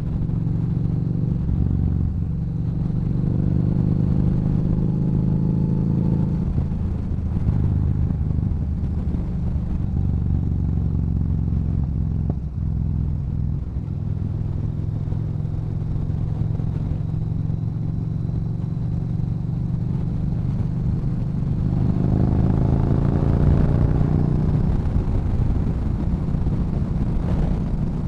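Yamaha Bolt's air-cooled V-twin running through a Cobra aftermarket exhaust under way. It climbs in pitch as it accelerates at the start, settles into a steady cruise, then climbs again near the end.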